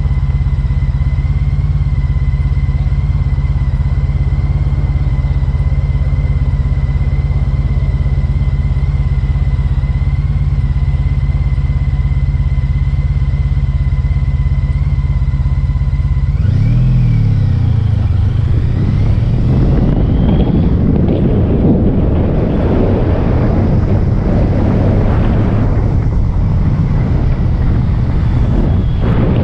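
Motorcycle engine running at a steady note, then a little past halfway it revs up and wind noise on the microphone grows loud over the engine.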